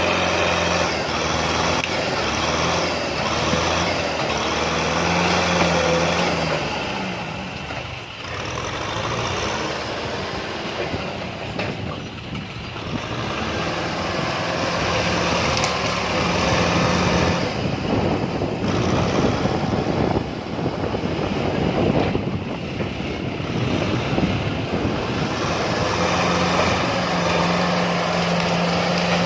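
Kubota M6040 tractor's diesel engine running, with its loudness and note rising and falling as it works, and a steady engine hum coming through clearly at times.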